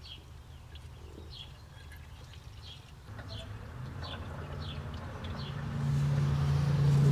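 A bird chirping over and over, a short call about every half second, for the first five seconds. From about three seconds in, a low hum and rushing noise builds and grows loud near the end, like a vehicle approaching.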